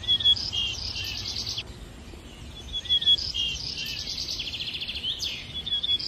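A songbird singing phrases of quick chirps and trills, the same phrase twice about three seconds apart, over a low steady rumble.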